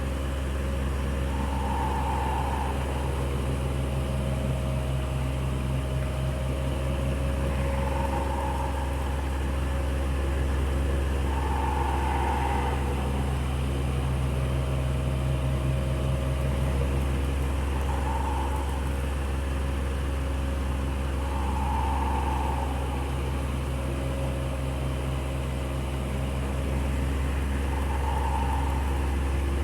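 Electric fan running steadily with a low motor hum and whir of moving air; a brief higher whir swells and fades every four to six seconds.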